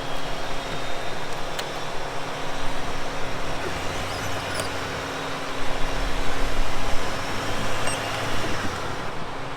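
Four-wheel drive's engine idling steadily under a haze of wind or outdoor noise, with a few faint clicks and a slightly louder low stretch about six seconds in.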